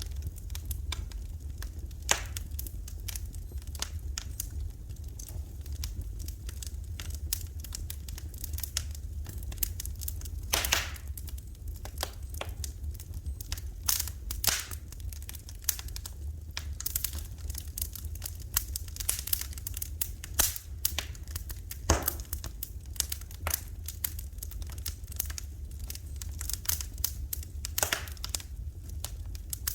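Wood fire in a fireplace crackling, with irregular snaps and a few louder pops scattered through. A steady low hum runs underneath.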